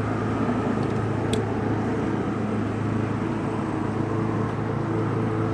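Handheld mini torch running with a steady hum and hiss, lighting the bedding fuel in a bee smoker.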